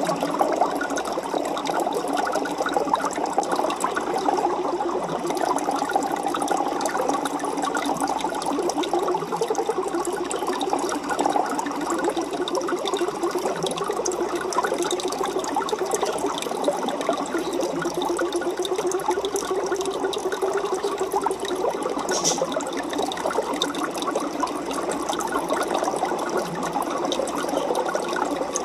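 Aquarium water bubbling and churning steadily, a dense crackle of bubbles with no pauses.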